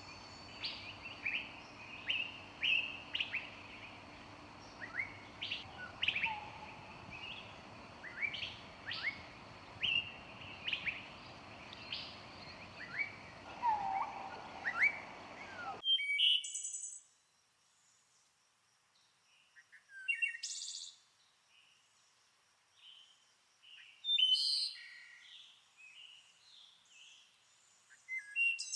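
Birds singing and chirping, with many short calls and quick downward-sweeping notes over a steady background noise. About sixteen seconds in, the background noise cuts off abruptly and sparser bird calls continue over near quiet.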